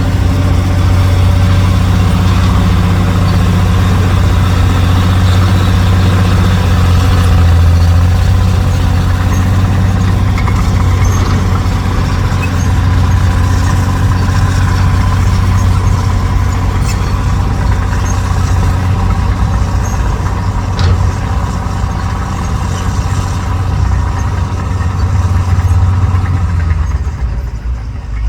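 Heavy construction vehicle's diesel engine running steadily with a strong deep note, dropping briefly in level near the end.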